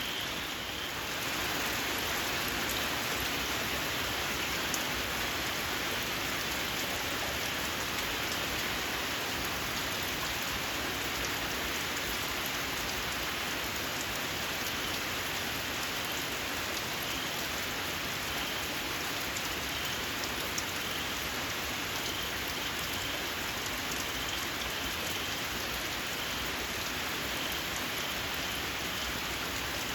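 Steady rain falling. Over it, a faint high chirp repeats at short intervals: small paddy frogs calling in the rain.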